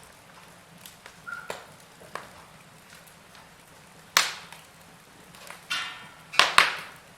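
Wood fire burning in a fireplace, crackling with scattered sharp pops; the loudest pops come about four seconds in and as a close pair near the end, with a short hiss just before that pair.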